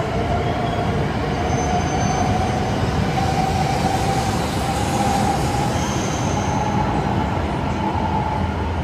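E8 series Shinkansen train, coupled with an E5 set, rolling slowly into the platform and coming to a stop. It gives a steady dense hum with a faint wavering whine and brief high squeals.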